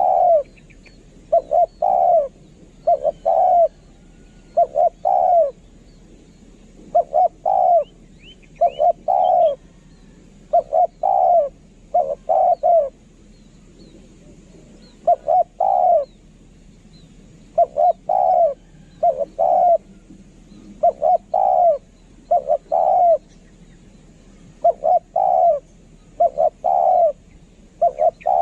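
Spotted dove cooing again and again in short phrases of two or three notes, a phrase every second or two, with a brief pause about halfway through. It is the call used as a decoy to lure wild spotted doves.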